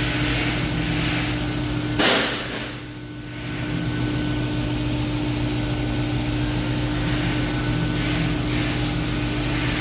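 Steady electrical hum and hiss of machinery, with one sharp knock about two seconds in.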